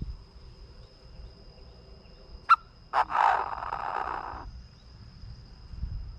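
Chinese francolin calling: a sharp short note about two and a half seconds in, then a loud, harsh call lasting about a second and a half.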